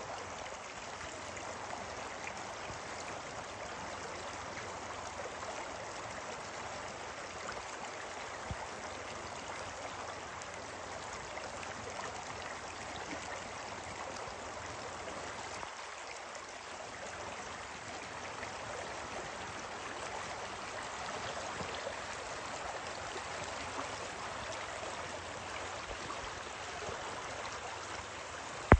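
Water flowing steadily in a stream, an even rushing babble. A single sharp knock sounds at the very end.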